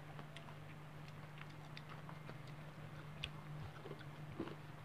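Faint chewing and small mouth clicks of people eating fried chicken and rice by hand, over a low steady hum.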